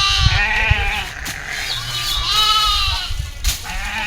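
A goat or sheep bleating twice: two long, wavering calls, the second starting about halfway through, over low rumbling wind noise on the microphone.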